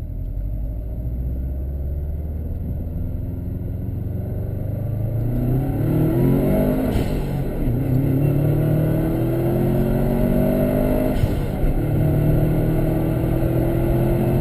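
2004 Subaru WRX wagon's 2.0-litre turbocharged flat-four, heard from inside the cabin. It runs steadily at first, then revs climb hard from about five seconds in, with gear changes of the manual gearbox about seven and eleven seconds in, each followed by the revs rising again.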